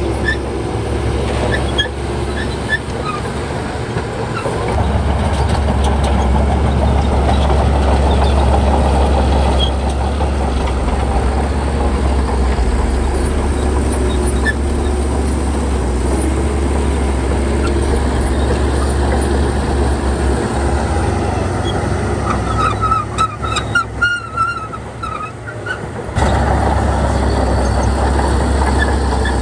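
Crawler bulldozer's diesel engine running steadily under load. Near the end the engine note drops away for a few seconds and short high squeals come through, then it picks back up.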